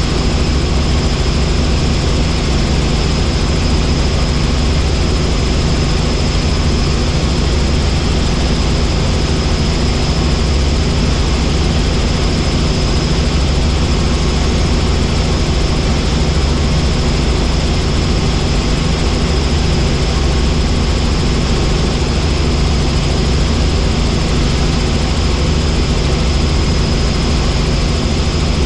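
Helicopter in steady cruising flight: a constant loud rotor and engine noise, heavy in the low end, with a thin steady high whine above it.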